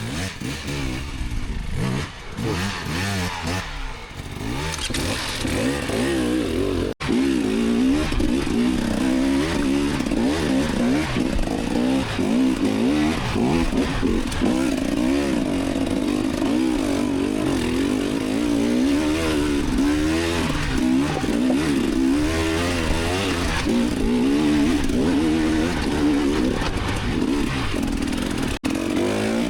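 Enduro dirt bike engine revving up and down in quick, uneven surges as the throttle is worked while riding over rough ground. The sound cuts out for an instant twice, about seven seconds in and near the end.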